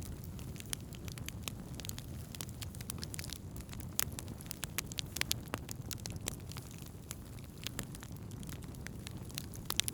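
Wood fire burning, with frequent sharp crackles and pops over a steady low roar of the flames.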